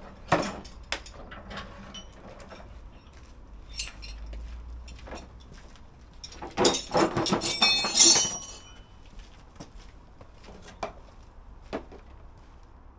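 Scattered metal knocks and clinks from tools and parts being handled, with a cluster of loud, ringing metallic clanks about seven to eight seconds in.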